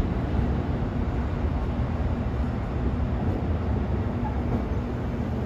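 Amtrak passenger coaches of an arriving train rolling past on the tracks below, a steady low rumble of wheels on rail with a faint hum.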